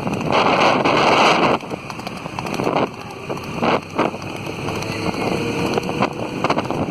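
Wind buffeting the microphone, loudest for about the first second and a half, then a lower rushing with a few short knocks.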